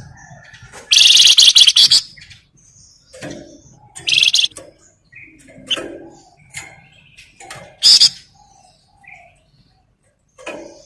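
Flamboyan songbird singing in loud, harsh buzzing rattles: about a second long early on, a shorter one about four seconds in, and a brief sharp one near eight seconds. Soft scattered chirps and calls come in between.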